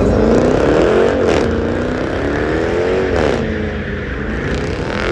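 Car engine revving hard, its pitch climbing, dropping sharply about a second in and again about three seconds in, then climbing again.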